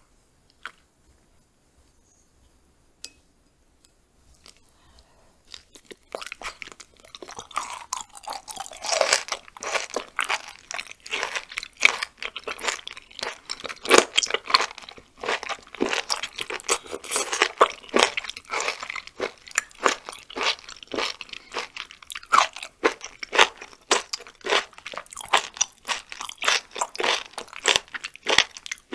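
Close-miked chewing of raw chicken gizzard, a quick run of crisp crunching clicks. It starts about six seconds in, after a near-quiet start with a couple of faint clicks.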